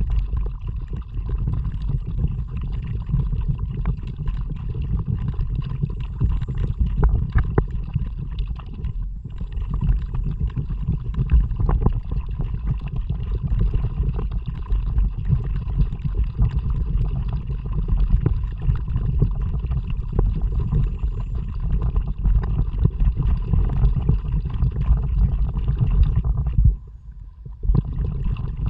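A kayak moving through water under paddle, with water gurgling and a heavy low rumble of wind on the action camera's microphone. The sound drops away for about a second near the end.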